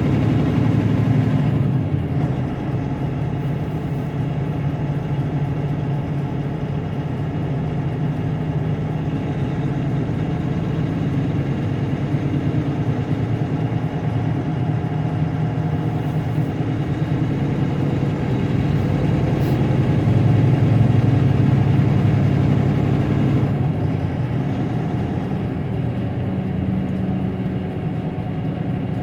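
Semi-truck's diesel engine running steadily while driving, heard from inside the cab, growing a little louder for a few seconds about two-thirds of the way through.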